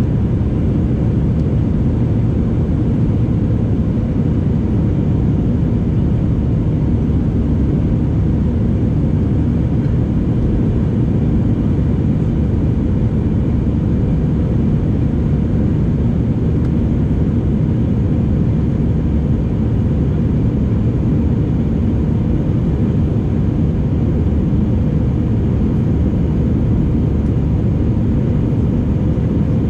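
Airliner cabin noise in flight after takeoff: a steady, unbroken rumble of the engines and the air rushing past the fuselage, with a faint steady hum on top.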